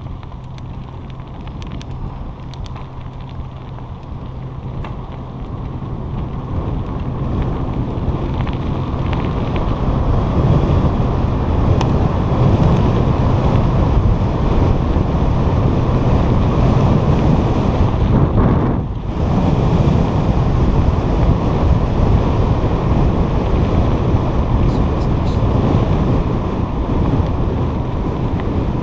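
Wind buffeting the microphone of a camera on a moving bicycle, a loud low rumble that builds over the first ten seconds or so and then holds, dropping out briefly about two-thirds of the way through.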